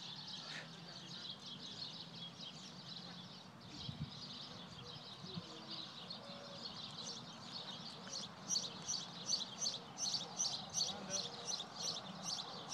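Birds chirping, breaking into a fast, regular run of high chirps, about four a second, from about two-thirds of the way in.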